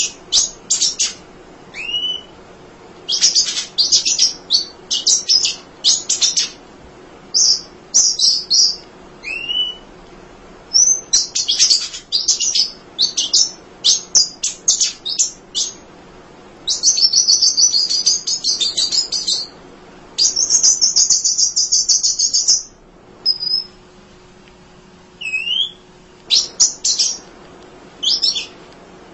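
Emprit (munia) singing: rapid clusters of high, sharp chirps with a few short falling whistles, and two long unbroken trills a little past the middle.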